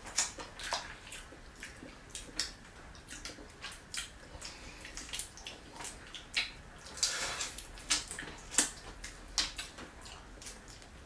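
Close-up eating sounds of seafood: wet smacking, sucking and slurping with scattered irregular clicks, and one longer slurp about seven seconds in.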